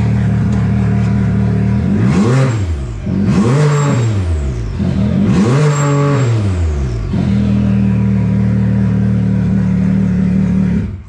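Can-Am Maverick X3's turbocharged three-cylinder engine idling through an RPM drag exhaust with a 4-inch muffler. It is revved three times, each rev rising and falling back, then settles to idle and is switched off at the very end. The exhaust is very loud, almost like open headers.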